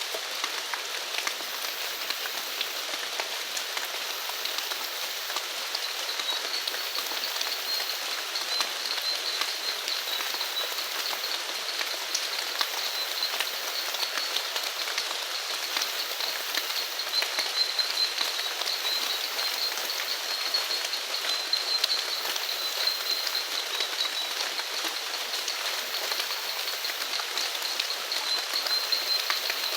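Steady rain falling, a dense patter of drops. About six seconds in, a steady high-pitched animal trill joins and carries on under the rain.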